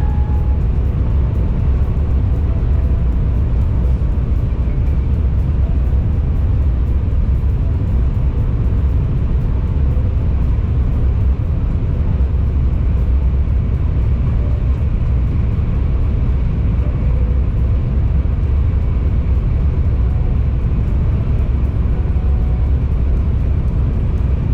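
KTX high-speed train running at speed, heard from inside the passenger car: a steady low rumble that does not change.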